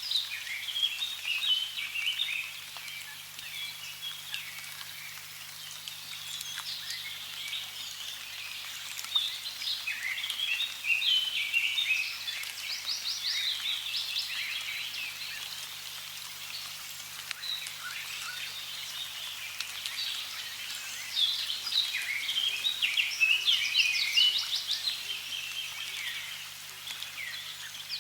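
Several songbirds chirping and trilling in quick, overlapping phrases, with rapid trills around the middle and near the end, over a faint steady wash of running water.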